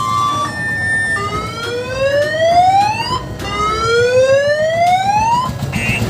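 Electronic siren sound from a mini tourist train's horn unit: a brief steady beep tone, then two rising siren sweeps of about two seconds each, over a low engine rumble.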